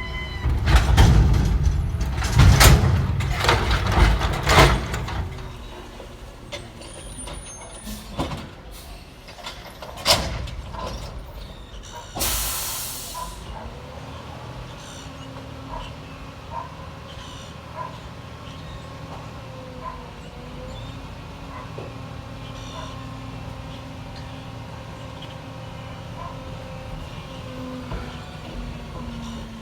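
Side-loader garbage truck working: loud clattering bangs for the first five seconds, a few sharp knocks, a hiss of air brake release about twelve seconds in, then the diesel engine running steadily with light ticking.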